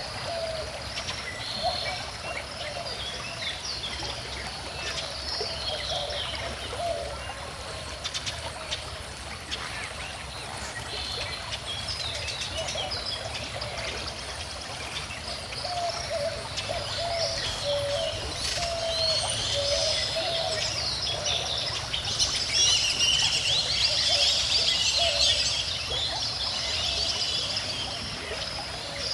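Small stream flowing steadily, with several birds singing and chirping over it; the birdsong grows busier and louder in the second half.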